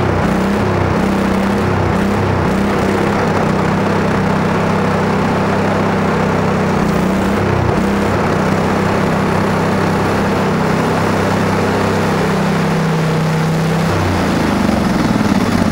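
Craftsman lawn tractor engine running steadily as the tractor is driven. Its pitch wavers for the first few seconds, holds steady, then shifts near the end.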